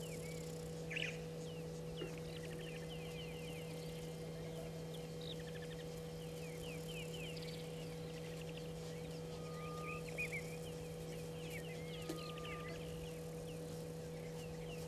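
Wild birds chirping and calling in the bush, many short calls overlapping, with a few louder calls about a second in and again around ten seconds in. A steady low hum runs underneath.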